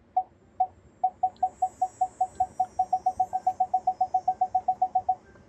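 Ford F-150 Lightning parking-sensor chime: short identical beeps that speed up from a slow pace to a rapid run, then stop. The quickening beeps signal the truck closing in on an obstacle as it parks itself.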